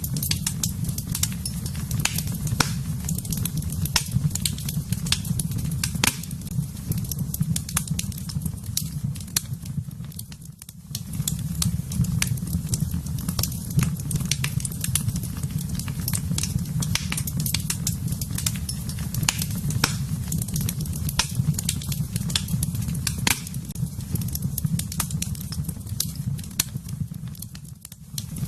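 Wood fire burning in a fireplace: a steady low rumble with frequent sharp crackles and pops. The sound dips briefly about a third of the way in and again near the end.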